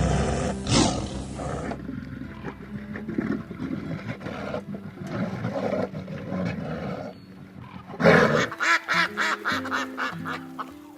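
Animal calls over background music: a loud, rough call in the first two seconds, and from about eight seconds in a rapid run of short calls.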